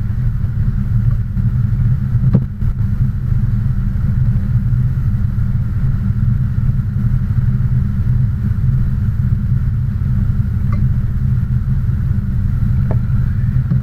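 Car engine and road noise: a steady low rumble with no change in speed or revving, and a couple of brief clicks.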